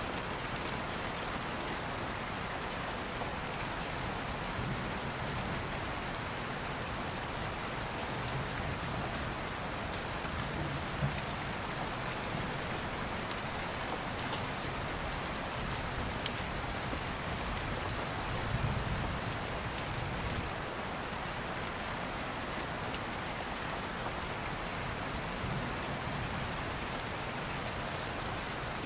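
Steady rain with a low rumble of distant thunder about two-thirds of the way through and a few sharp clicks.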